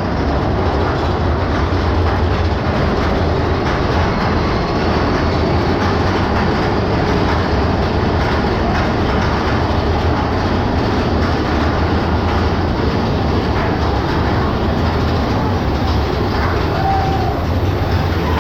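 Big Thunder Mountain Railroad's mine-train roller coaster running along its track: a loud, steady rumble and clatter of wheels on rail.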